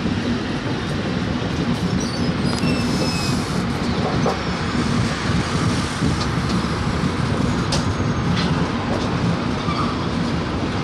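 Avadh Assam Express passenger coach running along the track, heard from aboard: a steady rumble of wheels on rail. A faint high squeal comes in briefly about two to three seconds in.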